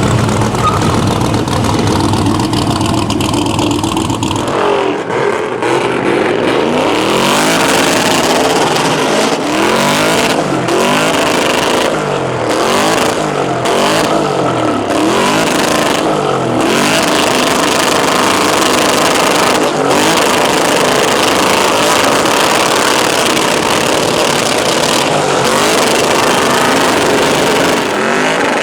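LS V8 engine of a 1984 Chevrolet C10 pickup, running low for the first few seconds, then revved hard over and over, its pitch climbing and falling repeatedly, as in a burnout.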